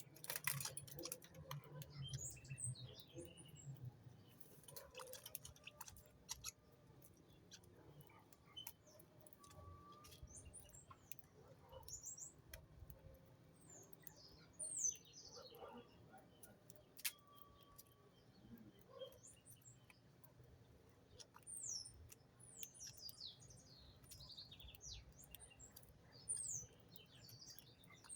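Small birds chirping on and off, scattered short high-pitched calls, with a few sharp clicks among them.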